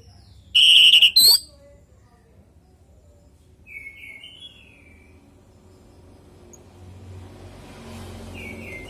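Orange-headed thrush calling: one loud, sharp call about half a second in that ends in a quick falling note, then soft, short warbled phrases around four seconds and again near the end.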